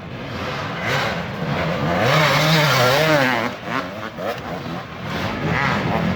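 Dirt bike engine revving in an enduro race, its pitch rising and falling repeatedly as the throttle is worked. It dips briefly past the middle, then builds again.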